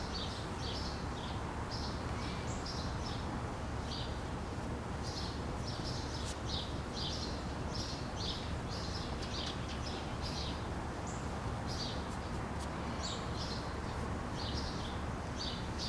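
Small birds chirping in short, high, repeated calls throughout, over a steady low background rumble.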